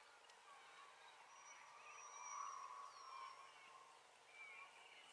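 Near silence with faint birds chirping in the background, and a faint steady hum that swells and fades in the middle.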